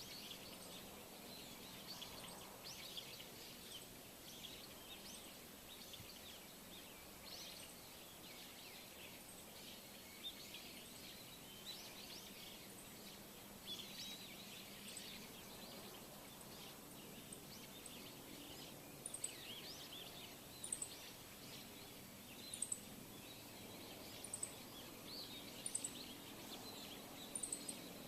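Many small birds chirping and twittering, with a very high, short double chirp repeated every second or two through the second half, the loudest calls.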